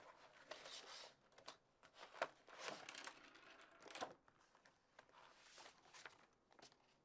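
Faint, irregular rustling and crinkling with a few small sharp clicks, like something being handled.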